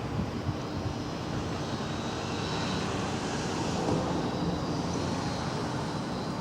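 An aircraft passing overhead: a steady broad rush that swells about halfway through and eases off again.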